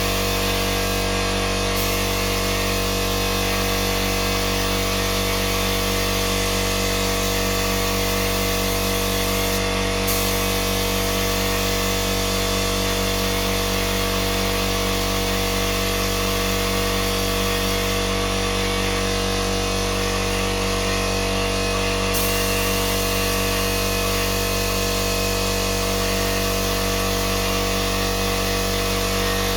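Electric power tool motor running steadily without a break: a constant hum and whine over an even hiss.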